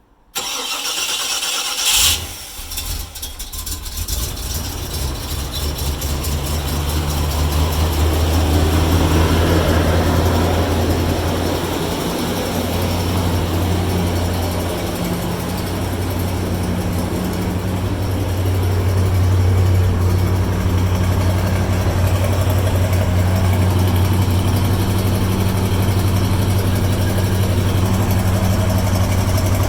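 1991 Jeep Grand Wagoneer's AMC 360 V8 cold-started after sitting about three months: the starter cranks for about two seconds, the engine catches, and it settles into a steady idle.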